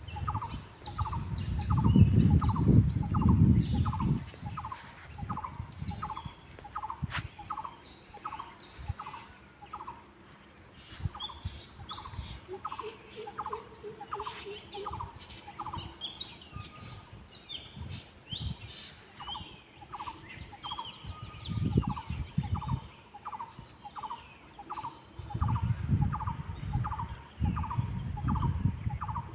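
A chorus of wild birds: one bird repeats a short call about twice a second, pausing briefly past the middle, while others chirp and trill higher up. Bursts of low rumble come and go, loudest near the start and near the end.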